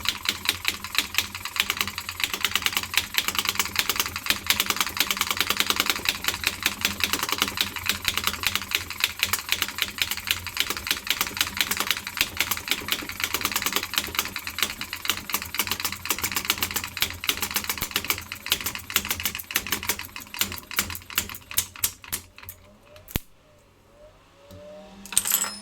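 Homemade gas-fuelled Lenoir engine running, a rapid even train of sharp firing clicks. The beats space out and slow from about two thirds of the way through, and the engine stops a few seconds before the end.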